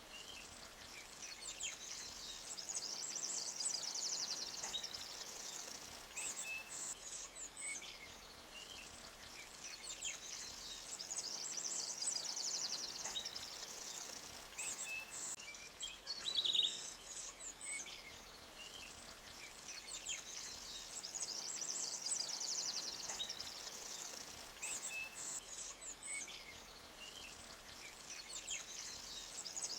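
Forest ambience: small birds chirping over a high, trilling chorus that swells and fades about every nine seconds, with the faint even hiss of a creek beneath.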